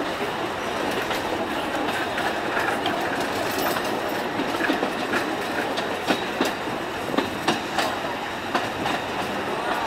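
Alishan Forest Railway train running steadily, with the rumble of the carriage and irregular sharp wheel clicks over the rail joints, several of them in the second half.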